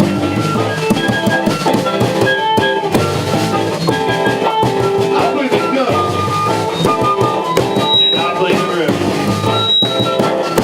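Live rock band playing: drum kit, guitars and bass in a loud, steady groove.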